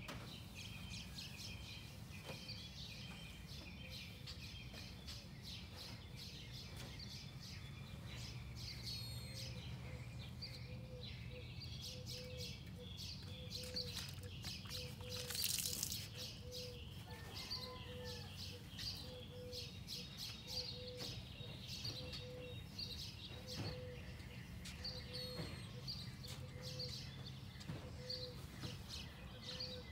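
Small birds chirping and calling repeatedly over a low steady hum, with a short low note repeating about once a second through the second half. A brief hiss comes about halfway.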